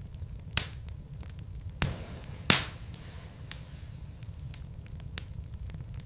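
Wood logs burning in a fireplace, crackling with many small clicks over a steady low rumble. Three louder pops stand out, the loudest about two and a half seconds in.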